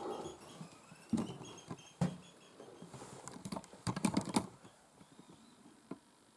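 Irregular clicks, knocks and light scraping of hands and camera handling while old swallow nests are felt and looked into, the loudest knocks about one, two and four seconds in. Faint bird chirps sound in the background over the first two seconds.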